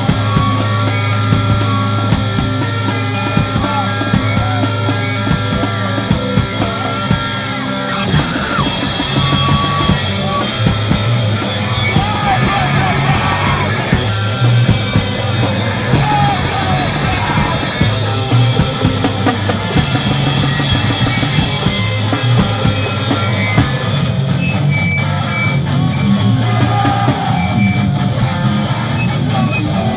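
A screamo band playing live with guitars, bass and a drum kit. A held, ringing chord gives way to busier playing with steady drumming about eight seconds in.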